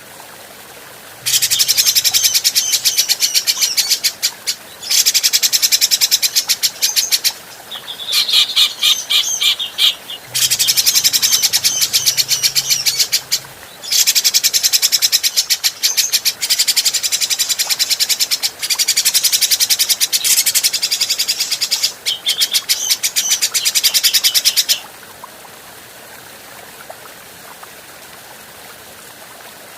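Grey-cheeked bulbul (cucak jenggot) giving rapid chattering calls in several bursts of two to three seconds, over a steady faint background hiss. The calls stop about five seconds before the end.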